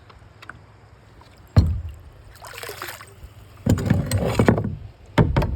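Water splashing and sloshing as bottles are worked loose from a muddy creek bottom by hand, with a sudden hollow thump about a second and a half in and heavier sloshing after the middle.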